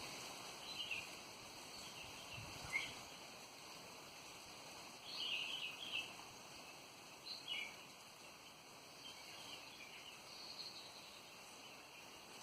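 Birds chirping: short, high calls and quick rising chirps come in scattered bursts, with a busier run about halfway through, over a faint steady background hiss.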